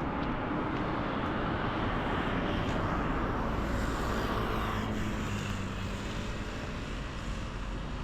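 Mercedes-Benz car on the move: steady engine and road noise, slowly fading.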